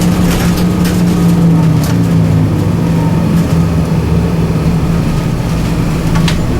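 Scania 9-litre six-cylinder turbocharged CNG bus engine running under way with a steady drone, with a few sharp rattling clicks.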